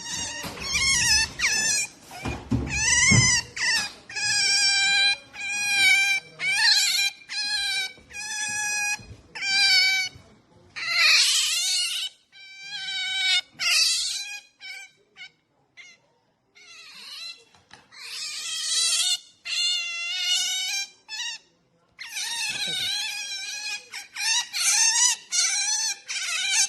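Pet otter making a long series of high, wavering squeals, each shorter than a second, with brief pauses between runs. This is a protest call at being touched.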